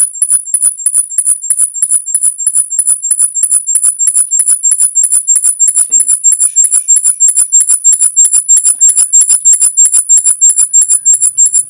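High-pitched electronic pulsing, about seven pulses a second, over two steady high whines. It is loud and unbroken, an unidentified interference-like noise picked up on the microphone.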